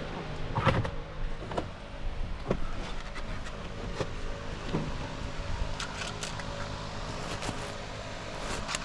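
A pickup's 6.2L V8 engine idling steadily, with scattered short clicks and knocks over it.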